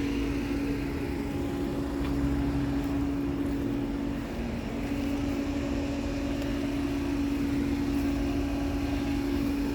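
Outdoor air-conditioner condensing unit running: steady fan noise with a constant hum.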